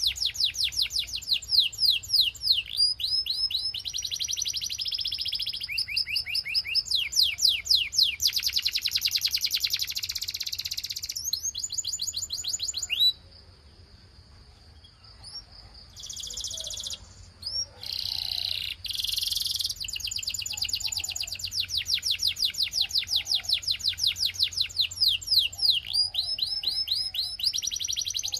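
Belgian canary singing long rapid trills of quickly repeated high notes, mixed with buzzy rolls. The song stops for about two seconds near the middle, returns in short phrases, then runs on in fast trills.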